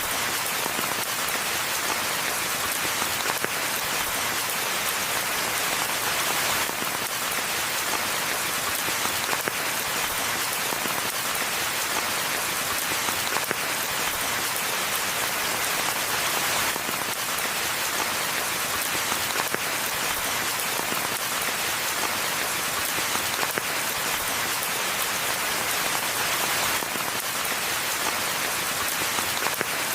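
Steady rain falling in a forest, an even patter of drops on the ground and leaves with no break.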